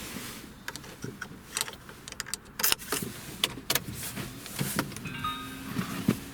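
Keys jangling and a run of sharp clicks and knocks inside a car, then a steady low hum that starts about five seconds in.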